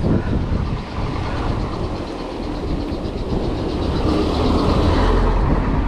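Wind buffeting the microphone over the rumble of a mountain bike rolling on the road. Partway through comes a rapid, even ticking from the rear hub's freewheel as the bike coasts.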